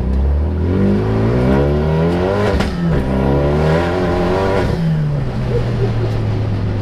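Renault Mégane RS Mk3's turbocharged four-cylinder engine accelerating hard. The revs climb, break sharply for a gear change about two and a half seconds in, and climb again. Near five seconds the throttle closes and the engine falls to a steady lower drone.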